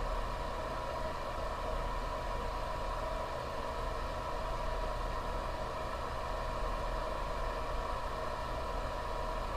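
Steady hum and hiss with a constant faint high-pitched whine and low drone; no separate events.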